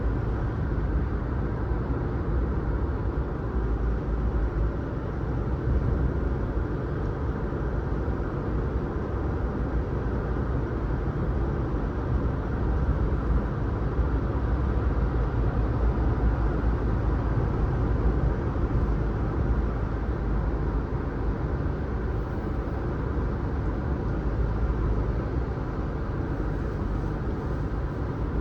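Steady road noise of a car driving: a low, even rumble of engine and tyres on the road.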